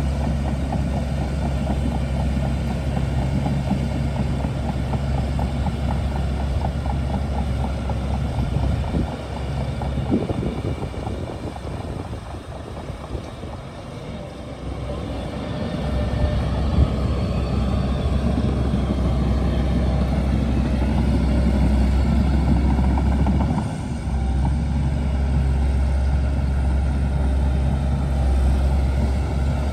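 Bulldozer diesel engine running steadily with a low hum, easing off for several seconds in the middle before picking back up.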